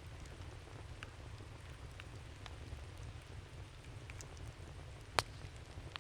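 Campfire of burning wood crackling, with scattered sharp pops over a steady low rumble; one pop near the end is much louder than the rest.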